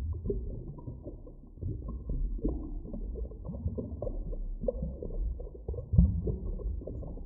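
Deep underwater ambience: a continuous low rumble with irregular low knocks and gurgles, the strongest thump about six seconds in.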